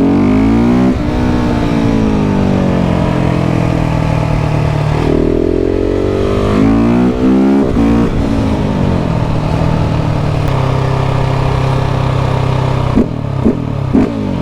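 KTM 690 SMC R's single-cylinder engine pulling hard through the gears, its pitch rising and then dropping at each shift, settling to a steadier drone, then a few short sharp blips or pops near the end as the throttle is closed.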